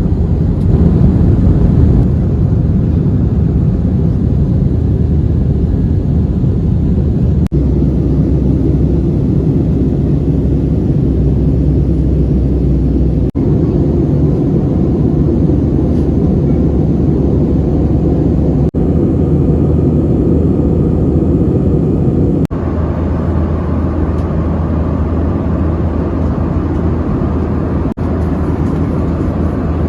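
Airbus A320 cabin noise: a loud, steady rush of engine and airflow heard from inside the passenger cabin. It is broken by several brief dips, after which the noise is slightly changed in character.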